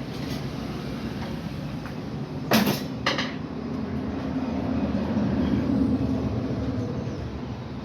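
A machine hums steadily at a low pitch, getting a little louder in the middle. About two and a half seconds in come two short, loud hissing bursts half a second apart, like blasts of compressed air.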